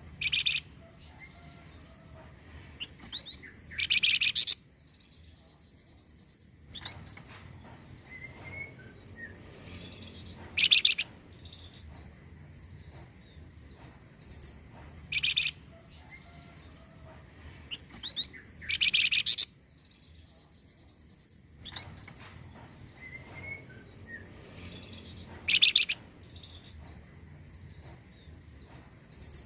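Flamboyan bird song played from a lure recording: loud, bright chirping phrases every few seconds, with softer twitters in between. The same sequence repeats about every 15 seconds, as a loop does.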